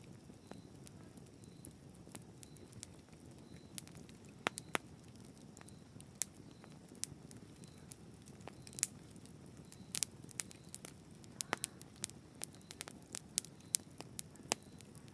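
Campfire crackling: irregular sharp pops and snaps, more frequent in the second half, over a low steady noise of the burning fire.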